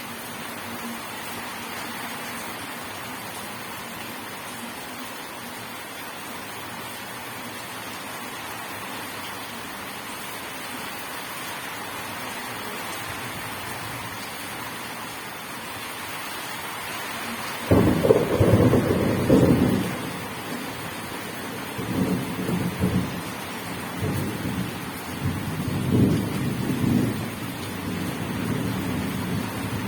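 Steady rain, with a clap of thunder breaking in suddenly about two-thirds of the way through and rumbling on in several rolls.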